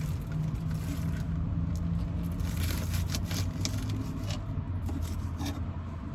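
Kitchen knife cutting and scraping green onions on a cutting board: irregular short taps and scrapes, bunched around the middle, over a steady low hum.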